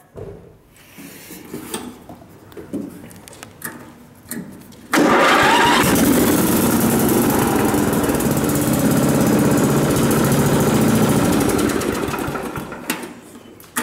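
1996 Murray 10-horsepower riding mower's engine: a few light clicks and knocks, then about five seconds in the engine starts suddenly and runs steadily, fading away near the end.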